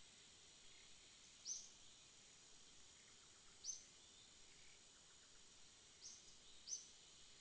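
Faint nature ambience: short, high bird chirps four times, the last two close together near the end, over a steady high hiss.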